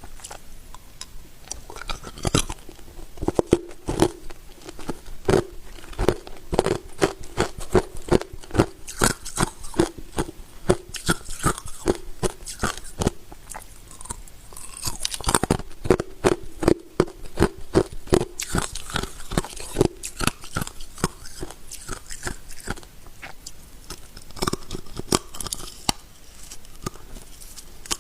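A person biting and chewing hard ice: a fast, irregular run of sharp crunches and cracks, several a second.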